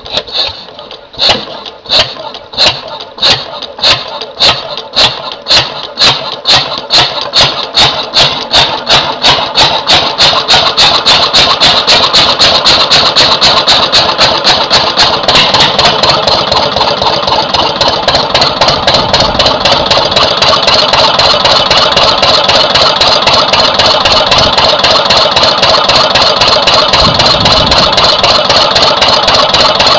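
Lister CS twin-cylinder stationary diesel engine starting up: its firing beats come slowly at first, then quicken steadily over the first twenty seconds or so, and it settles into a fast, even running beat near the end.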